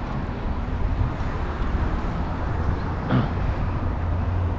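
Steady city traffic and road noise with a low rumble, with one brief short sound about three seconds in.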